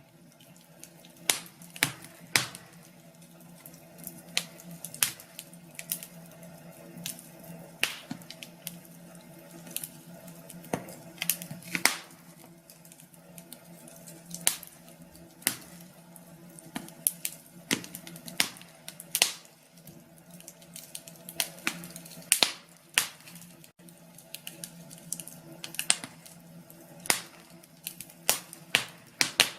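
Wood fire crackling in a fireplace: irregular sharp pops and snaps, sometimes several in quick succession, over a low steady rushing background.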